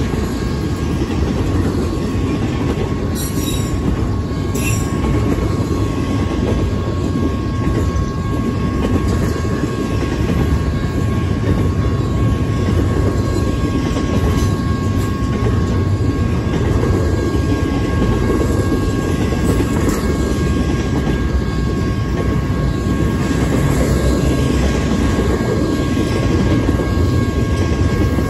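Double-stack intermodal container cars of a freight train rolling past at speed: a loud, steady rumble of steel wheels on rail with a thin, steady high ringing tone over it. Two sharp clanks come about three and five seconds in.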